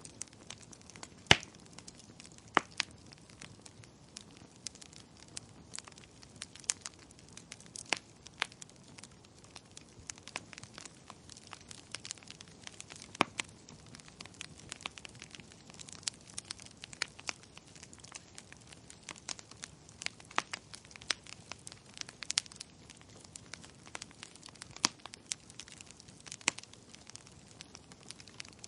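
Wood fire crackling in a fireplace, with irregular sharp pops over a soft hiss. The loudest pop comes about a second in.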